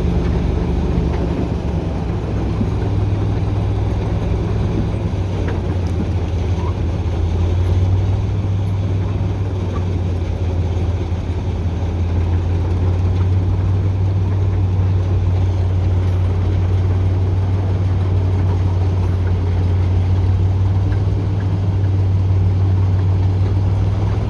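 TU6A narrow-gauge diesel locomotive's YaMZ-236 V6 diesel running steadily under way, with a constant low drone and the rumble of the wheels on the track.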